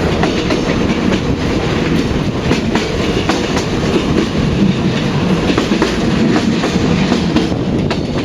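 Passenger train on the Hanoi–Ho Chi Minh railway running at speed: a steady heavy rumble, with sharp clicks of the wheels over the rail joints.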